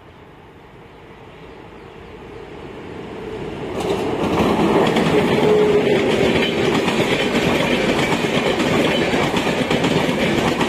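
Superfast express train hauled by a WAP7 electric locomotive approaching, growing steadily louder over the first four seconds, then passing close with a loud, steady rumble of wheels clattering over the rails.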